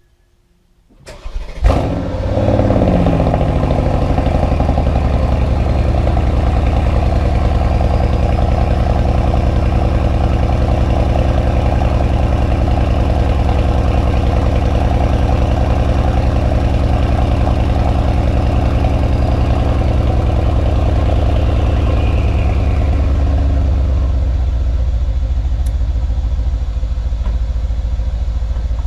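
A high-performance SUV's V8 engine starting, with a brief flare of revs about two seconds in, then settling to a steady idle.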